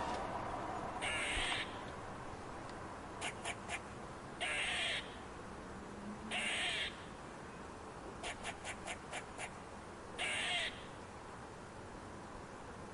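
A bird giving four harsh, raspy calls, each about half a second long, with two quick runs of sharp clicks in between: three clicks, then later six.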